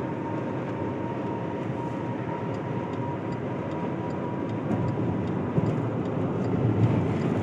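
Steady road and engine noise inside a moving car's cabin, growing a little louder in the second half.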